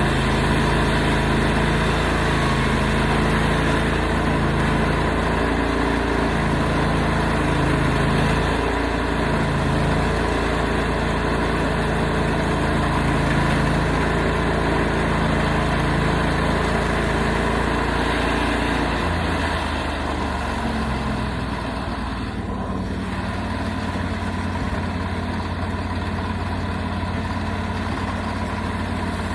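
Portable sawmill's engine running steadily, its low hum shifting to a different, slightly quieter note about two-thirds of the way through.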